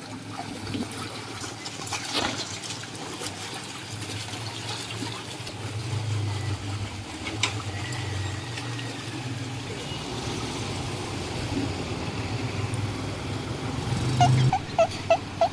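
Water gushing and splashing out onto a street, with a motor vehicle's engine running by. Four short horn beeps near the end.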